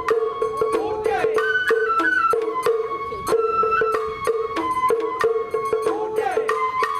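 Sawara bayashi festival music: a high flute melody stepping between held notes, with a couple of sliding bends, over a steady lower tone and frequent sharp percussion strikes.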